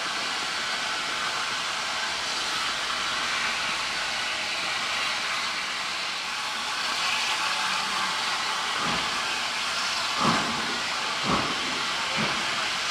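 N15 'King Arthur' class steam locomotive hissing steadily with escaping steam, then, from about nine seconds in, four heavy exhaust chuffs about a second apart, coming slightly quicker each time.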